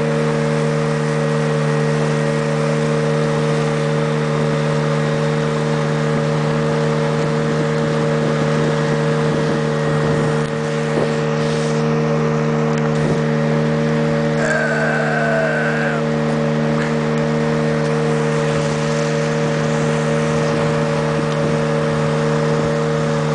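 Boat motor running steadily at cruising speed, an even engine drone that holds the same pitch, over a hiss of water and wind.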